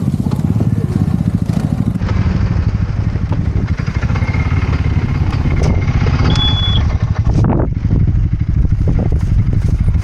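Quad-bike (ATV) engine running with a steady pulsing beat; a little before the end the rushing hiss drops away and the engine's slower, even beat stands out.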